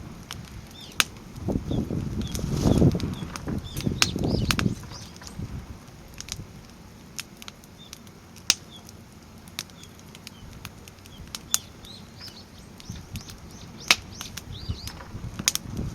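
Crib-stacked firewood burning in a steel fire pit, crackling with sharp scattered pops, and a low rumbling whoosh swelling for a couple of seconds near the start.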